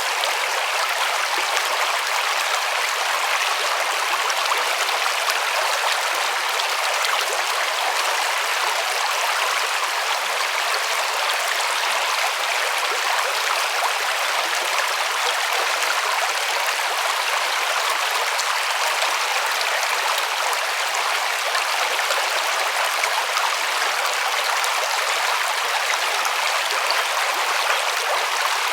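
River water flowing and splashing over stones: a steady rushing and babbling that holds even throughout, with no low rumble.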